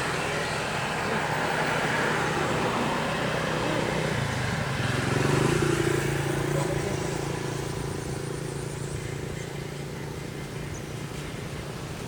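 A motor vehicle's engine running and passing by: it grows louder to a peak about halfway through, then fades away.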